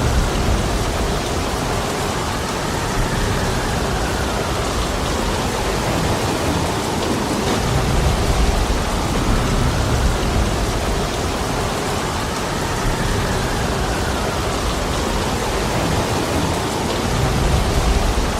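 Heavy, steady rainfall, with low rumbling swells returning about every eight to nine seconds.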